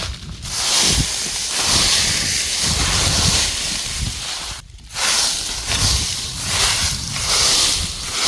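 Dry corn litter rustling and crackling in uneven surges as it is walked through and searched, with a brief break about four and a half seconds in.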